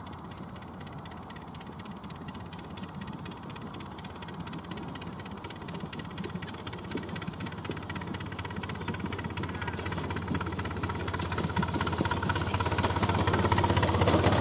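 Miniature railway train running on the track: a steady low hum with fast clicking, growing steadily louder and loudest near the end.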